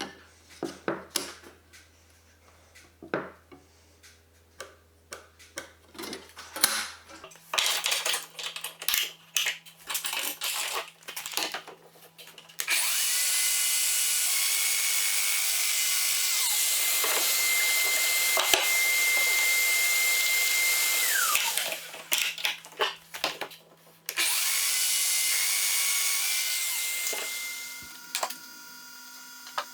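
Woodworking shop sounds: scattered clicks and knocks of wood and tools being handled, then a handheld power tool running steadily with a high whine for about eight seconds before winding down. After a few more knocks the tool runs again briefly near the end.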